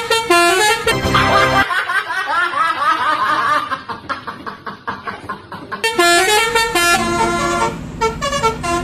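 Telolet bus horn, a multi-tone musical air horn, playing a melody of held notes that step up and down, with a warbling stretch in the middle and a quieter patch before the stepped notes return near the end.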